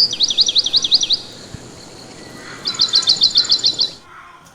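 Pet budgerigars chirping: two quick runs of rapid, high, repeated chirps, the first right at the start and the second from a little before three seconds in.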